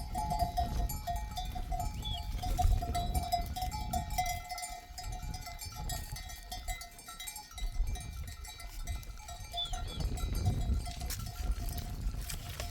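Bells on a grazing flock of sheep ringing and clinking, with overlapping steady metallic tones and many small clinks, over a low rumble.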